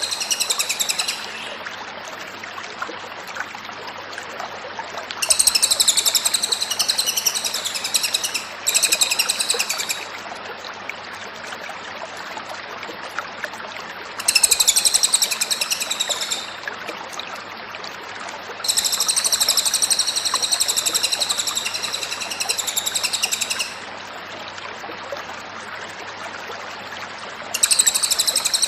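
Cililin bird singing in repeated bursts of fast, high chattering notes, six outbursts each one to five seconds long, with a steady hiss between them.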